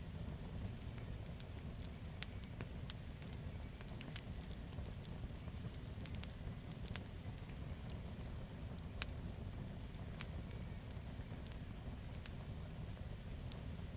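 Campfire burning: a steady low rumble of the flames with irregular sharp crackles and pops of the burning wood, a few louder snaps among them.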